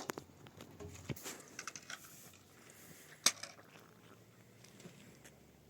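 Scattered light taps and clicks, with one sharper click about three seconds in.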